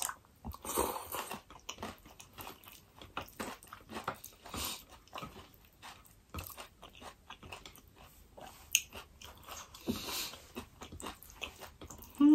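A person chewing and crunching food close to the microphone, with many small, irregular wet mouth clicks.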